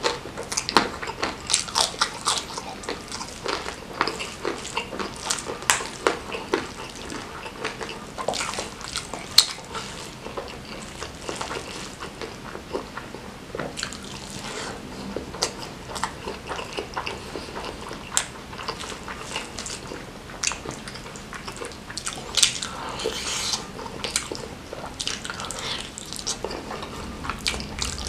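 Close-up chewing and mouth sounds of a man eating handfuls of sauce-soaked nasi Padang rice by hand: many short, irregular clicks and smacks that keep coming.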